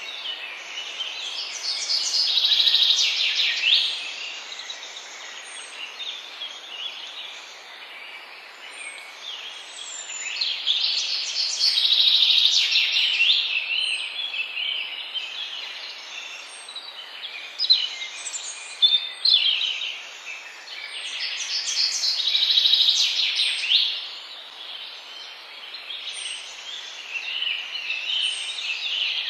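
Songbirds singing over a steady background hiss: a loud song phrase of rapid notes comes about every ten seconds, with a few short sharp calls between them and faint high chirps from another bird repeating every second or two.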